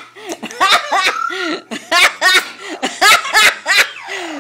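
Yellow-naped amazon parrot imitating human laughter: a rapid string of short, uneven 'ha-ha' calls.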